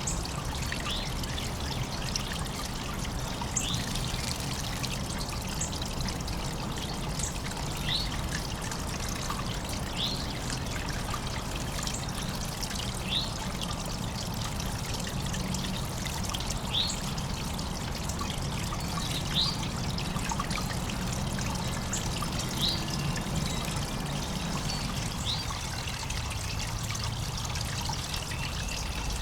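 Water trickling steadily in a backyard bird bath. A bird gives short, sharp, high chip notes every two to three seconds.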